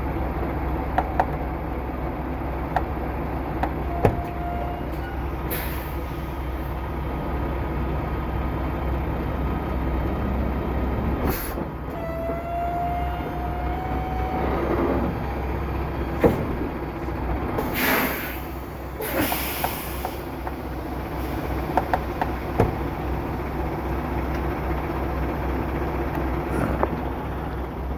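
Semi truck's diesel engine idling as the tractor-trailer is eased forward a little, with several short bursts of air hissing from the air brakes and scattered clicks. A brief rising whine sounds about halfway through.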